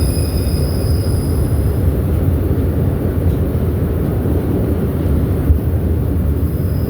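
Subway train running through the station with a steady low rumble. A thin high whine sounds over it for the first two seconds and comes back near the end.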